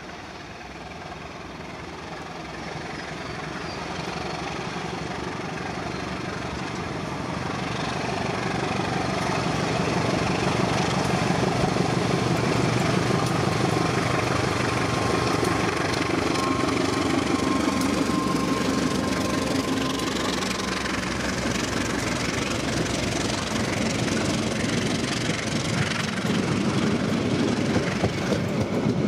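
A train approaching and running past on the tracks, growing louder over the first ten seconds and then holding a steady rumble.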